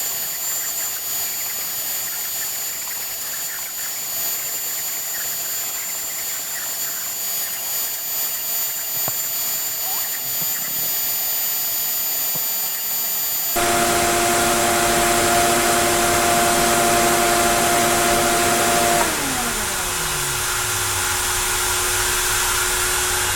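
Onefinity CNC router machining wood, its spindle running with a steady high whine over a hiss. About halfway through a louder motor with a lower steady hum cuts in. Near the end one motor spins down with a falling pitch, the sign of the spindle stopping at the end of the job, while a vacuum-like hum continues.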